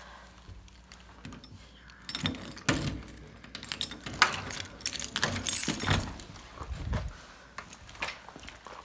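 Keys jangling and rattling, with irregular clinks and rustles and a few low thumps through the middle stretch.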